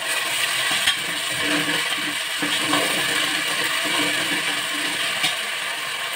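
Ginger-garlic paste and chopped onions sizzling in hot oil in a pressure cooker while a steel ladle stirs and scrapes against the pot, with a couple of sharp clicks of the ladle on the metal.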